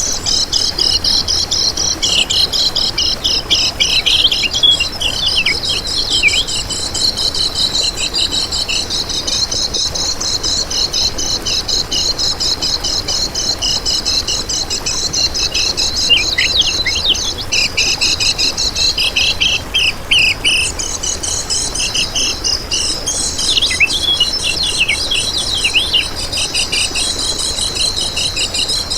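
Kecial kuning singing: a continuous, very fast, high twittering chatter, with sharper chirps and short falling notes scattered beneath it.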